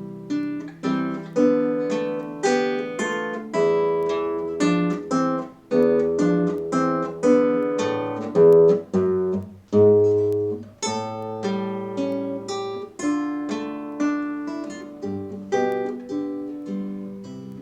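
Solo acoustic guitar playing a slow folk-song melody in plucked notes and chords over a bass line, each note ringing and dying away.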